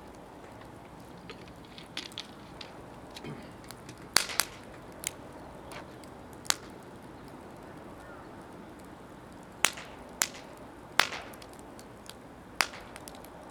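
Wood fire of mostly green firewood crackling in a Snow Peak steel fire pit: irregular sharp pops and cracks every second or so, a few of them loud, over a steady low background noise.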